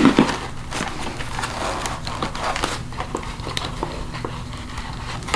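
Rustling with scattered light clicks and knocks as a Schuberth C3 Lite modular motorcycle helmet is pulled on over a pair of eyeglasses.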